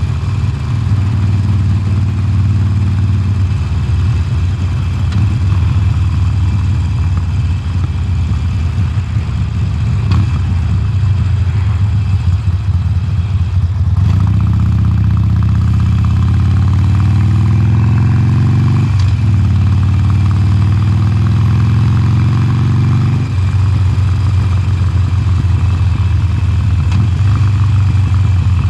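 2020 Harley-Davidson Sportster Forty-Eight's air-cooled V-twin running through its stock exhaust while riding. About halfway through it pulls up in pitch under acceleration, with a break in the rise that marks a gear change, then eases back off a few seconds later.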